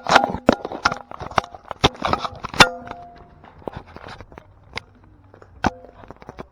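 A series of irregular sharp knocks, several with a brief ringing tone, coming thick and fast for about three seconds and then only now and then over a faint steady low hum.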